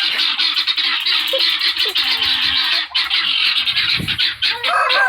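A mixed flock of guinea fowl and chickens calling all at once, a noisy, dense chatter of many quick, harsh calls. A rooster starts crowing near the end.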